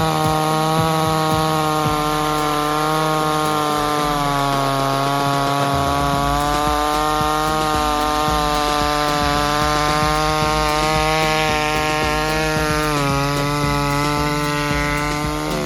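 Gasoline chainsaw running at high revs while cutting through wood. Its engine note holds steady but dips slightly twice as the chain loads in the cut, then drops as it comes off at the end.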